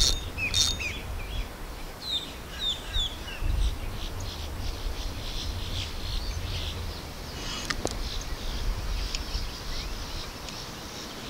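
Birds chirping, with a few short down-slurred calls about two seconds in, over a low rumble.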